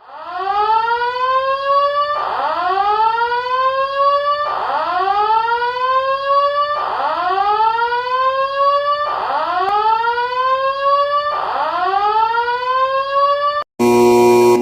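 Electronic whooping alarm tone of a mock EAS alert: a rising sweep repeated six times, about one every two seconds. Near the end it breaks off and switches to a loud, steady, chord-like alert tone.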